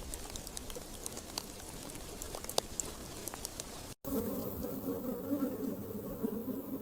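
Rainforest ambience with scattered faint high clicks and chirps. About four seconds in it cuts abruptly to a steady low buzz with a few overtones, a flying insect's wings buzzing close by.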